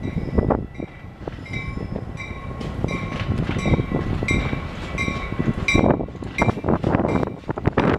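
Train passing close by, its wheels knocking over rail joints in a fast irregular run of clacks over a steady rumble. Short ringing tones repeat over it throughout.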